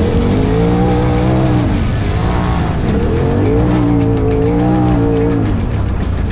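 Side-by-side UTV engine revving hard on a dirt track, its pitch rising, holding and dropping off twice, with background music over it.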